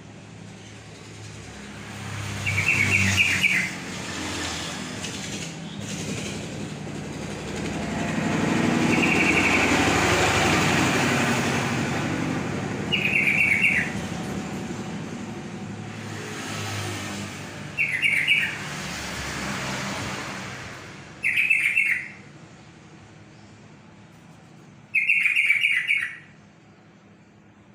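Yellow-vented bulbul singing short phrases of quick notes, about six phrases a few seconds apart. Through the middle, the noise of a passing vehicle swells and fades.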